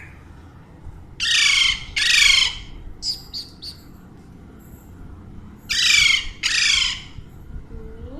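Alexandrine parakeet squawking: two pairs of loud, harsh calls, the first pair about a second in and the second near the end, with a few softer chirps between them.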